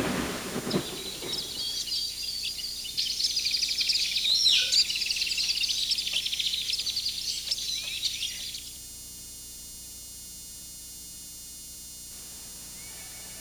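A brief rumble, then dense bird chirping and trilling for about eight seconds that cuts off suddenly, leaving a steady faint hiss.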